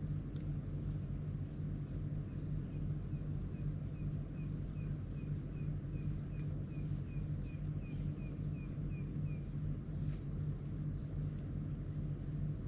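Night-time bush ambience around a campfire: a steady high insect drone over a low rumble. In the middle, a run of about eighteen quick, evenly spaced chirps goes at roughly two or three a second, and a few sharp crackles are scattered through.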